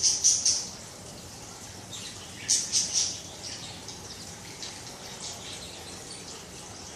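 Pet budgerigar chirping in short high-pitched bursts, loudest at the start and again about two and a half seconds in, with fainter chirps after.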